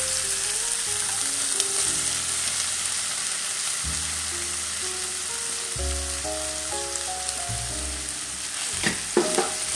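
Shredded mackerel tuna (tongkol) frying in sautéed chili-shallot spice paste in a pan: a steady sizzle. Soft background music of slow, stepping notes plays underneath.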